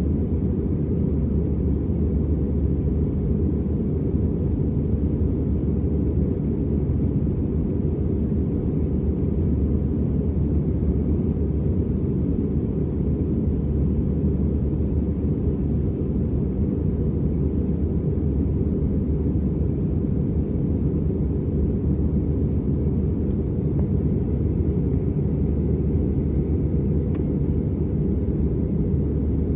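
Steady low rumble of engine and airflow noise inside the cabin of an Airbus A320, with two faint ticks late on.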